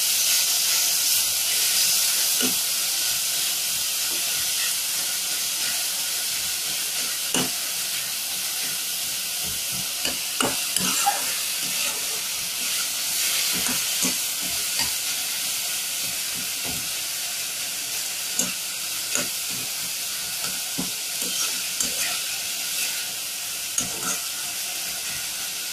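Chicken paste and chopped vegetables frying in oil in a pan with a steady sizzle that slowly grows quieter. A spatula scrapes and knocks against the pan now and then as the filling is stirred.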